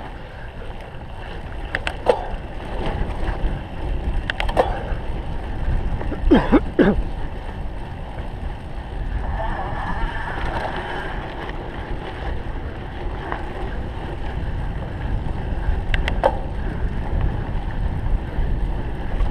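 Wind buffeting the microphone over the low rumble of a cyclocross bike's knobby tyres on rough ground. A few sharp clicks and rattles come from the bike, with a brief squeaky cluster about six seconds in.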